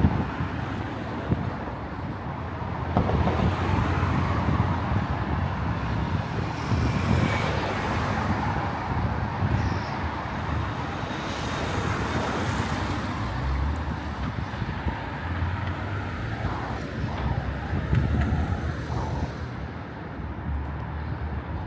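Street traffic: a steady rumble of road vehicles, with cars passing by about three and eleven seconds in.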